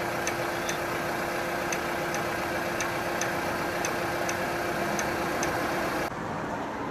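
A vehicle engine idling with a steady hum, and a flasher relay ticking about twice a second over it. The sound changes abruptly about six seconds in.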